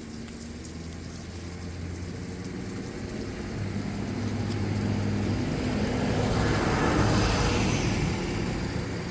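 A motor vehicle passing by: a steady engine hum with road noise that grows louder to a peak about seven seconds in, then fades.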